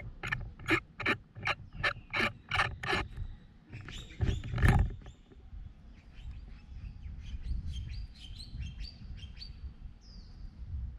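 Birds chirping: a run of sharp repeated chirps, about two or three a second, then quicker short high twittering with a couple of falling notes near the end. A louder noisy burst comes about four seconds in, over a steady low rumble.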